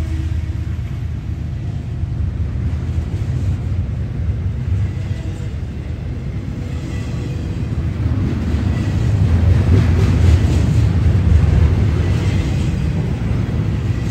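Freight train rolling past: a steady low rumble that grows louder about eight seconds in and peaks a couple of seconds later.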